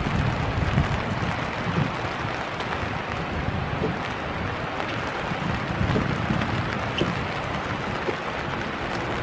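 Steady winter rain falling, with scattered drop ticks over a low rumble of wind on the microphone.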